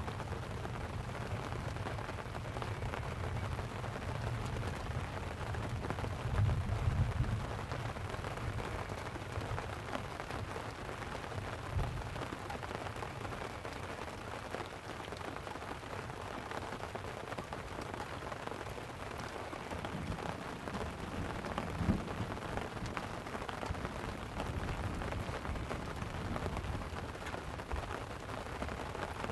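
Steady light rain pattering on a tent, with a low rumble of distant thunder swelling about six seconds in and fading. Two short, sharp pops stand out, one about twelve seconds in and a louder one about twenty-two seconds in.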